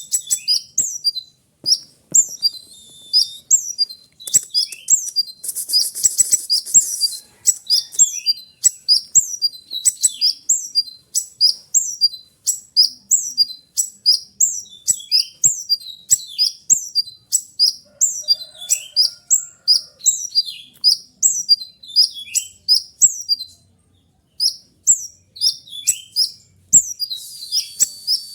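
A sunbird (konin) singing a long, dense run of sharp, high chirps, about two to three a second, each dropping quickly in pitch. A few buzzy trills are mixed in, about two seconds in, around six seconds in and near the end.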